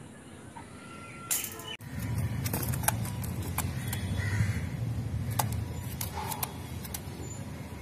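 Birds calling a few times over a steady low rumble, with scattered sharp clicks; the sound changes abruptly about two seconds in, where the footage cuts.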